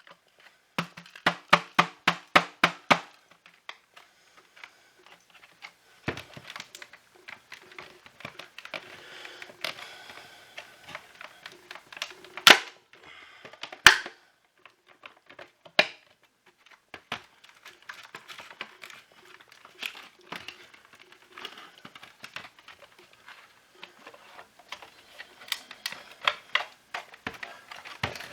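Disassembly noises from a Shark cordless vacuum: a fast, even run of ticking clicks, then scattered clicks and handling of plastic parts, with two sharp, loud snaps about halfway through.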